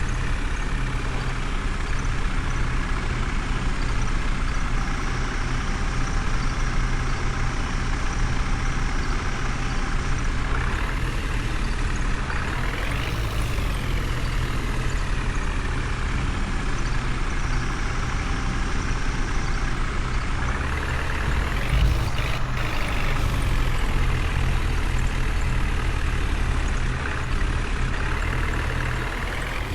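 Heavy diesel machine engine running steadily, revving up and back down twice: once about halfway through and again about two-thirds of the way through.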